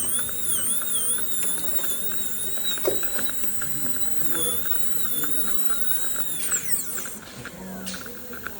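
Dental handpiece whining with a burr as it trims composite resin from the front surface of a tooth. The pitch dips and wavers under load in the first second or so, then holds steady, and about six and a half seconds in it winds down with a falling whine and stops.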